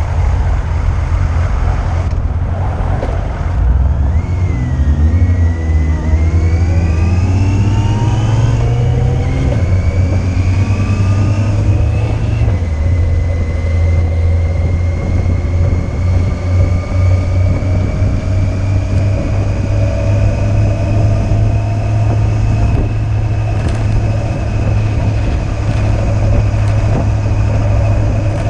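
Yamaha Fazer 600's inline-four engine accelerating through the gears, its pitch climbing in three pulls from about 4 to 12 seconds in, then cruising with a steady, slowly rising pitch over a constant low rumble.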